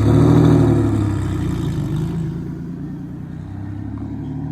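Infiniti Q50 with a top-mount single-turbo setup, its engine pulling hard and then easing off. It is loudest about half a second in, fades as the revs settle, and cuts off abruptly at the end.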